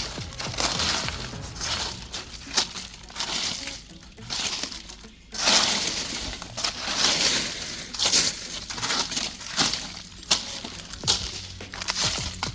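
Dry leaves crunching and rustling in irregular bursts as they are handled and pushed aside.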